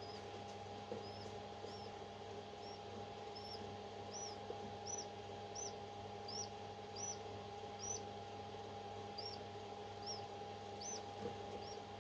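A parrot chick cheeping: short, high, arched peeps repeated about every two-thirds of a second, with one brief pause, over a steady machine hum.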